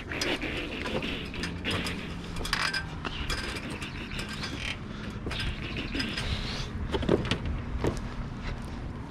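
Irregular clicks, taps and rustling of things being handled, over a low steady rumble.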